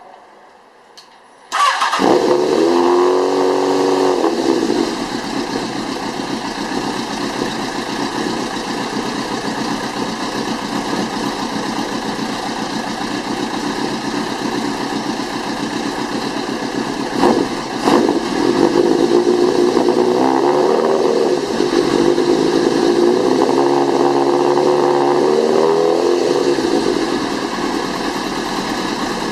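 2004 Kawasaki ZRX1200R's inline-four engine through a DanMoto GP Extreme megaphone exhaust, starting about a second and a half in and running at a raised, falling idle, then idling steadily. Around the middle there are two short sharp blips, followed by a stretch of revving up and down before it settles back to idle near the end.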